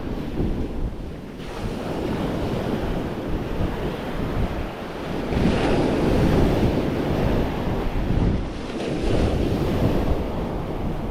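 Wind buffeting the microphone over the wash of ocean surf, swelling louder about halfway through and again near the end.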